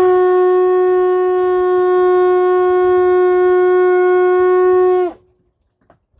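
Conch shell horn blown in one long, steady note as the sunset signal, ending about five seconds in with a slight drop in pitch.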